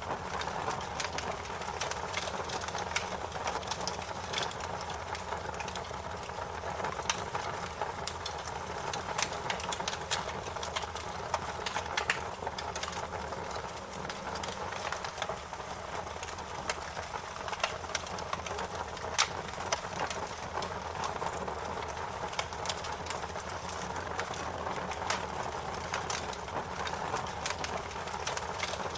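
Fire crackling: a steady hiss with frequent, irregular sharp pops and snaps.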